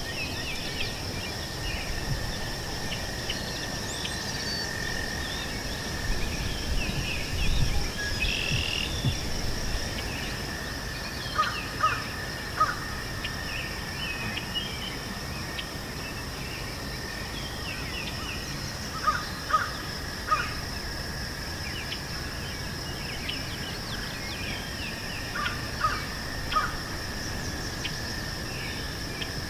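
Outdoor meadow ambience: a steady high-pitched drone of insects with small birds chirping here and there. A louder bird call comes three times in quick succession, and that set of three repeats three times, about 12, 20 and 26 seconds in.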